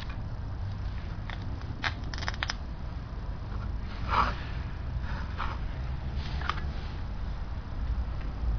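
Engine running at idle, a steady low rumble with scattered sharp clicks, the noise a hydraulic valve lifter makes.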